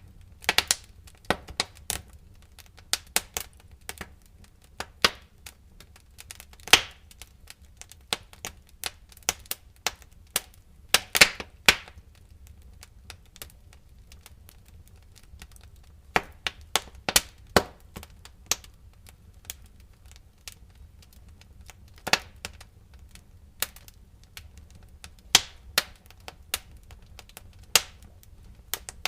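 Wood fire crackling in a fireplace: irregular sharp pops and snaps, some in quick clusters, over a faint low rumble of the flames.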